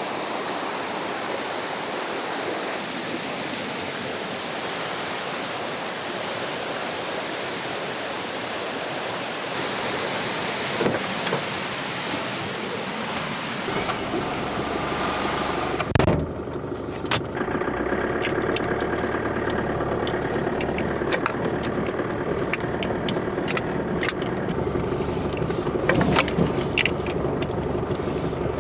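Steady rush of a river for the first half. About halfway through comes a single loud thump, then a car engine running steadily, with scattered light clicks.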